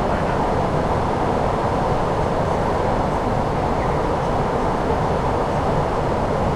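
Steady flight-deck noise of an Airbus A340-600 on approach: an even, unbroken rush of airflow and air-conditioning, mostly low in pitch.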